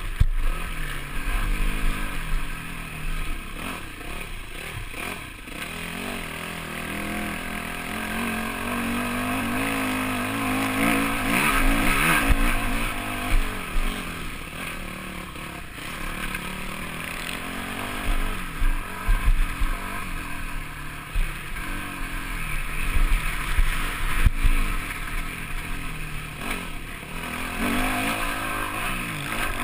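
Yamaha motocross bike's engine heard from on board, revving up and dropping back again and again as it is ridden. There are bursts of low rumble and a sharp knock about two-thirds of the way through.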